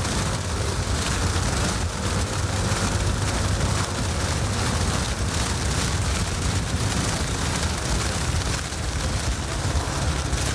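Steady wind rushing over the camera microphone and a Yamaha N-MAX scooter running while being ridden along a wet road in the rain.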